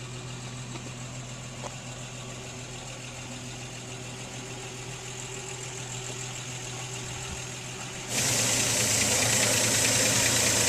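1955 Chevrolet 3100 panel truck's 235 straight-six engine idling steadily. About eight seconds in the sound abruptly gets louder and hissier while the idle keeps the same pitch.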